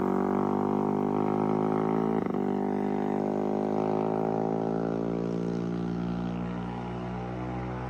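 Moped engine running at steady high revs, a continuous drone whose pitch sinks slowly and fades slightly toward the end.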